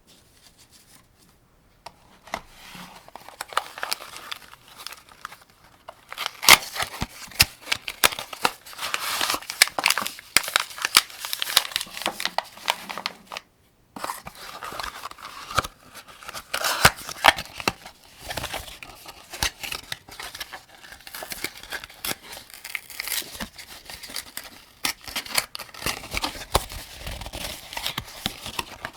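Cartridges clicking and rattling as they are handled and pressed one by one into a 75-round AK-47 drum magazine. It is a dense, uneven run of small sharp clicks mixed with rustling, with a brief pause about halfway through.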